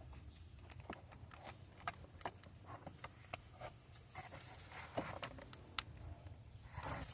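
Scattered light clicks and knocks of hand tools and metal parts being handled while a car starter is worked into place, faint and irregular.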